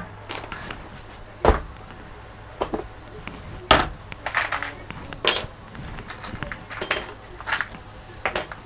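Irregular clicks, knocks and light metallic clinks of small hard objects being handled, about a dozen in all, the two loudest knocks about one and a half and nearly four seconds in, over a low steady hum.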